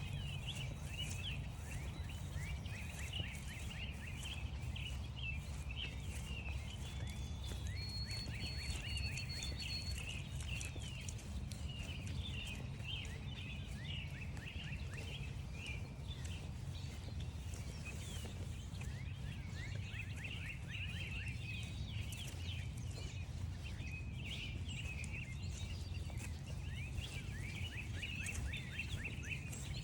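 Several songbirds chirping and singing continuously, many short down-slurred notes overlapping, with a brief high thin whistle about a third of the way in. Light crunching footsteps on frost-stiffened grass run underneath.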